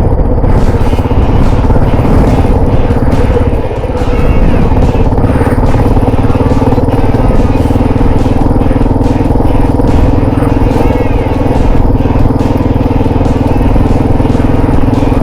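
Adventure motorcycle engine running steadily while riding a dirt trail, with a low wind rumble and frequent short clatters from the bike on the rough ground. The sound dips briefly about four seconds in.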